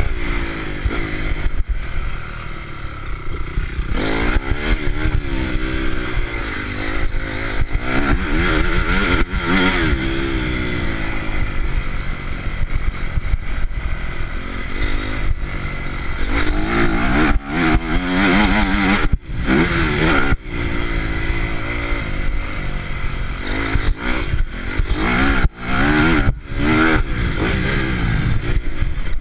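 Honda CRF four-stroke motocross bike engines revving, the pitch repeatedly climbing and dropping as the throttle is opened and shut.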